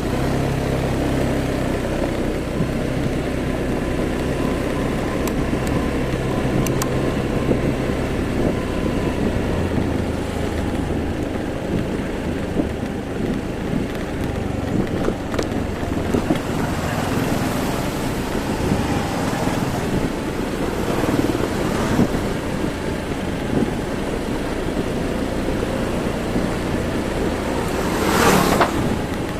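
Motorbike engine running on the move, with wind buffeting the microphone and road noise; a brief loud rush of air comes about a second before the end.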